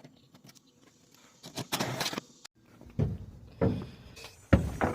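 Handling noises at a service truck: a scraping, sliding sound, then several thuds about a second apart as parts are fetched from stock.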